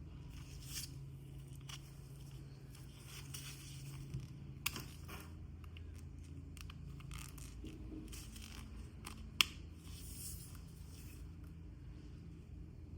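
Packaging being handled and opened: irregular rustling, scraping and tearing, with two sharp clicks, about a third and two thirds of the way in, over a steady low hum.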